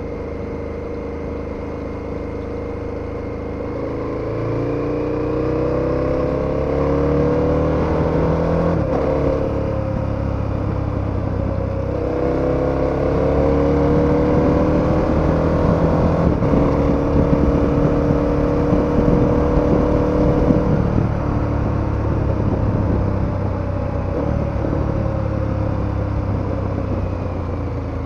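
KTM 1290 Super Adventure's V-twin engine pulling hard, its pitch rising through one gear, a short drop at a shift about ten seconds in, then rising again through the next gear before settling to a steady cruise for the last several seconds.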